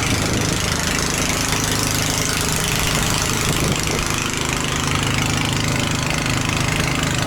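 Engine of a small river boat running steadily while under way.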